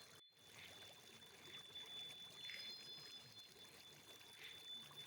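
Near silence: a faint bed of trickling, flowing water with a thin steady high tone running under it.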